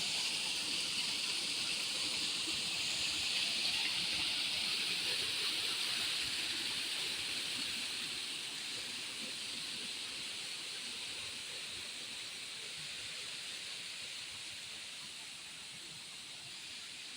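Waterfall rushing, a steady hiss of falling water that slowly grows fainter.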